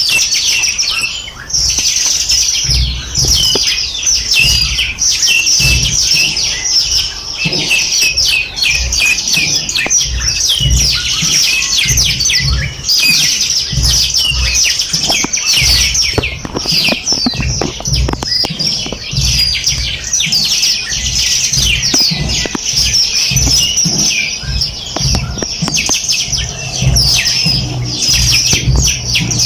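A chorus of small birds chirping and twittering, with many rapid, high calls overlapping without a break. Low thuds or rumble sound beneath them.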